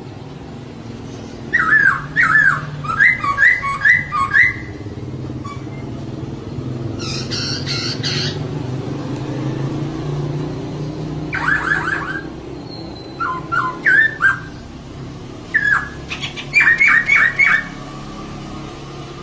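Female poksay (laughingthrush) calling in short bursts of quick, repeated down-slurred notes, with one harsher chattering burst midway, over a steady low hum.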